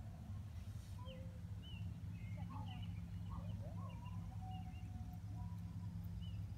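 Birds chirping and calling in short, scattered phrases over a steady low rumble.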